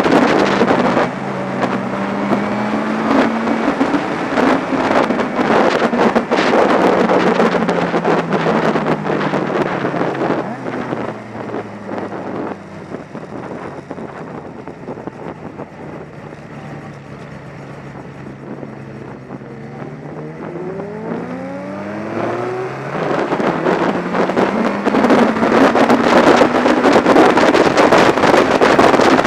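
Motorcycle engine on the move: its pitch falls as the bike slows, it runs quieter at low revs through the middle, then rises sharply as the bike accelerates away. Heavy wind rush on the mic builds as speed returns.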